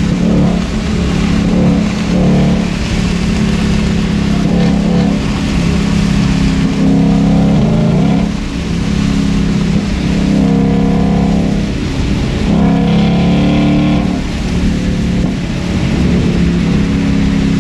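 Ford Shelby GT500 V8 with a loud aftermarket exhaust, running hard with several revs rising and falling.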